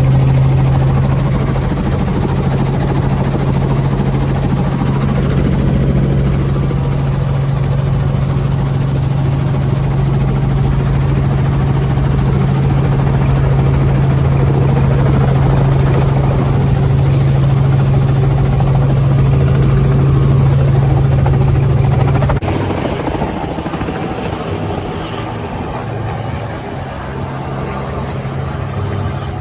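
Helicopter engine and rotor running with a steady low drone. About 22 seconds in the drone drops away, leaving a lighter, rougher engine noise.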